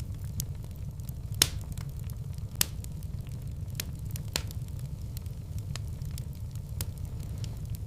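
Wood fire burning in a fireplace: a steady low rumble with irregular sharp crackles and pops, two louder pops in the first few seconds.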